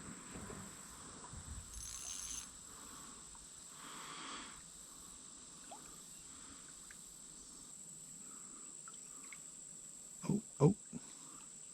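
Quiet riverside ambience with a steady high-pitched insect drone, faint scattered noises, and two short thumps about ten seconds in.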